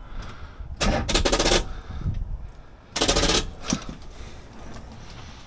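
Starter solenoid chattering in two short bursts of rapid clicking instead of cranking the Corvette's 350 V8. This is the sign of too little current reaching the starter, which the owner puts down to a loose connection or a weak battery.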